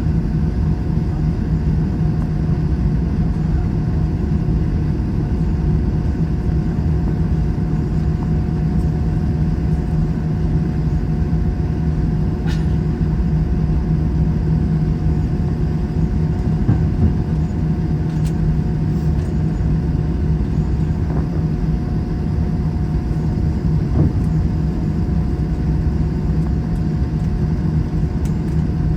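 Steady low rumble and hum of an Airbus A321 jetliner heard from inside the cabin, its engines running at an even, low power as it taxis, with a few faint clicks and knocks.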